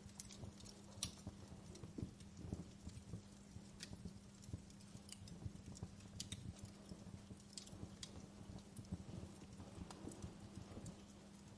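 Wood fire crackling in a fireplace, with faint irregular pops and snaps over a low steady hum.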